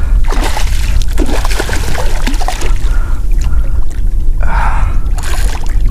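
Water splashing and sloshing beside a kayak as a hooked redfish is played close to the boat, over a steady low rumble, with a louder splash about four and a half seconds in.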